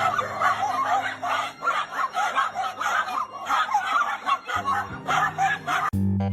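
Laughter over background music, with rapid chattering voice sounds throughout. Just before the end it cuts to organ music.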